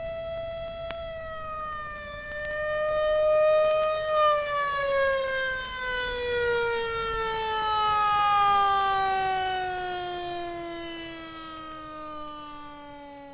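Emergency vehicle siren sound effect: a single wailing tone held steady for about four seconds, then slowly falling in pitch and fading away.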